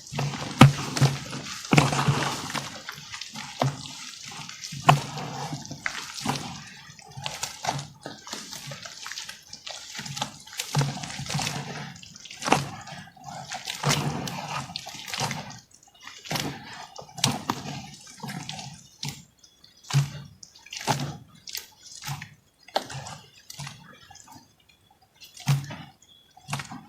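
Water-soaked crumbly lumps of dried cement-type material being squeezed and broken apart by hand. A run of soft crunches and crackles, with repeated dull thuds and water dripping and sloshing.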